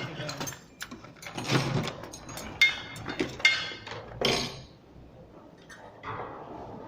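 Metal parts and tools handled while working on an automatic sliding door's mechanism: a run of irregular clicks and short ringing clinks and knocks, thinning out after about four and a half seconds.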